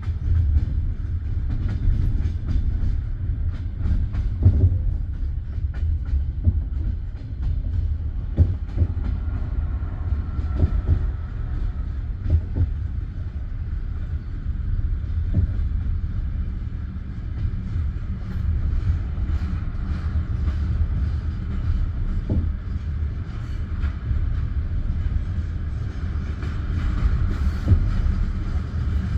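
Passenger railway carriage rolling along the track: a steady low rumble of the wheels and running gear, with a sharp clack of the wheels over rail joints every few seconds.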